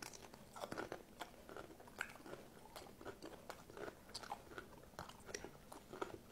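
A person chewing crisp cucumber slices, making quiet, irregular crunches and small mouth clicks.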